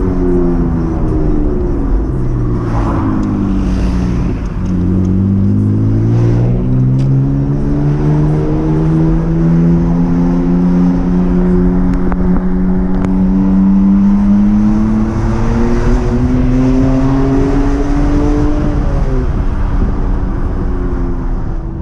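BMW E39's 2.5-litre inline-six running through an aftermarket exhaust with a K&N air filter. The revs fall over the first few seconds, then climb steadily under acceleration for about fifteen seconds before dropping off near the end.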